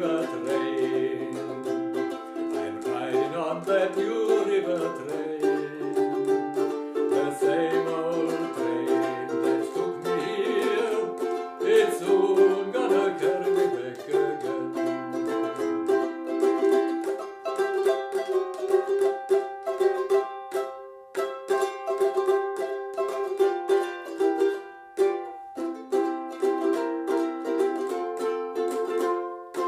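Ukulele strumming a folk tune, the strokes coming thick and even. For roughly the first half a lower melody line moves along underneath, then the ukulele carries on alone and stops abruptly at the end.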